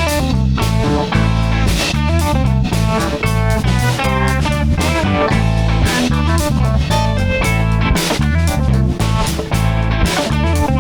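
Instrumental intro of a song: guitar playing over bass and a drum kit keeping a steady beat, with no singing yet.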